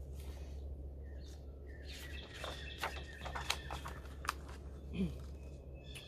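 Songbirds chirping: a quick run of short, sharp, high chirps about two seconds in that lasts a couple of seconds, over a low steady hum.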